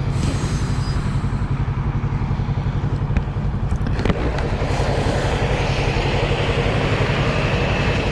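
Motorcycle engine running at a steady pace while riding, under wind and road noise that grows louder about halfway through.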